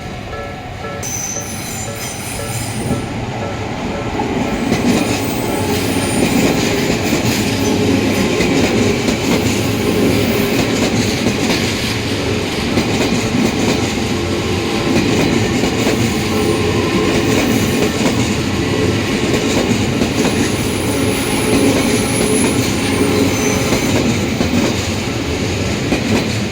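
Train passing over a Japanese level crossing. The crossing's warning bell rings in rapid repeated dings until about a second in, then the train's running noise builds and stays loud, with brief high wheel squeals.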